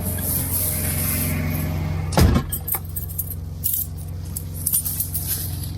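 Steady low hum of a semi truck's diesel engine running, heard inside the cab. About two seconds in comes one loud knock, followed by a few light clinks and rattles like keys jangling.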